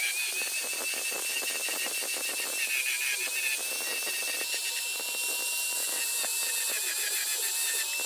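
Small high-speed power tool running, its whine dipping briefly in pitch now and then as it is pressed on the work, with rapid scratchy grinding throughout.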